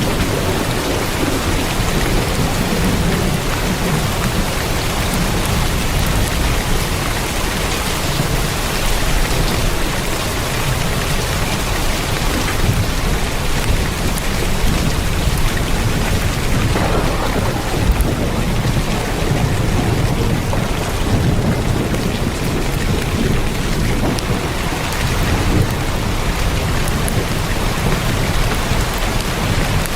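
Heavy rain drumming steadily on a tin roof, a dense, even patter with a low rumble underneath.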